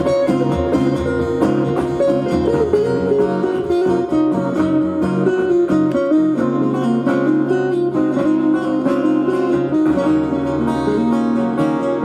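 Live band music led by guitars, with plucked notes and a moving melody over a steady bass.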